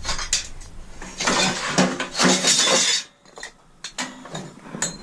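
Metal scrap being handled, clattering and clinking for about three seconds, then a few lighter knocks.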